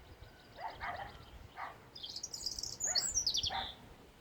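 Distant dogs barking every second or so, while a songbird sings a quick run of high notes falling in pitch from about two seconds in.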